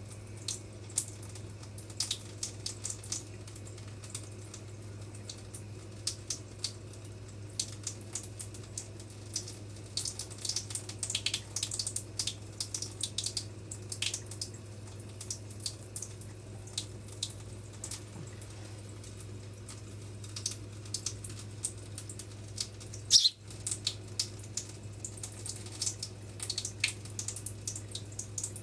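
A small bird feeding, making quick, irregular high-pitched clicks and ticks, over a steady low hum.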